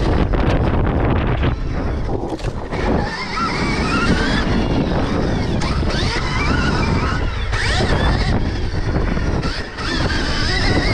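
Stark Varg electric motocross bike ridden on a dirt track: its electric motor whines, rising and falling in pitch several times with the throttle, over heavy wind rumble on the microphone.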